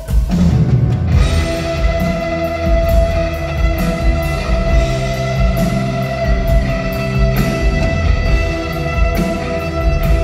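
Rock band playing live: guitar over drums and bass, with long held notes sounding throughout.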